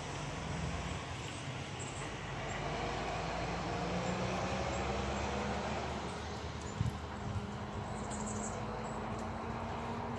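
Steady low hum of a distant engine over outdoor background noise, with a single sharp knock about seven seconds in.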